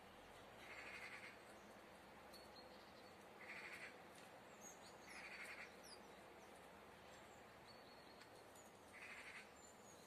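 Faint wild bird calls: four harsh calls, each about half a second long, and thin high chirps and short glides from small songbirds in between.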